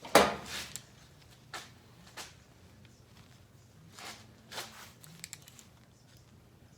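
Clunks and rustles of small objects being handled and set down on a workbench: one sharp knock near the start, then several softer ones spread out.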